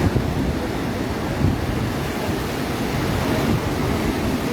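Ocean surf washing onto the shore, a steady rushing noise, with wind buffeting the microphone in a few low bumps.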